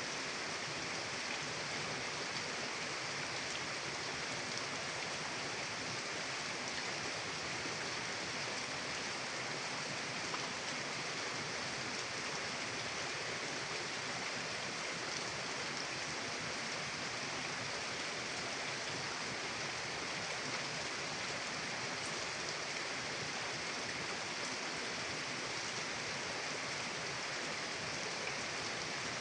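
Steady rushing of a mountain river's flowing water, an even hiss with no changes.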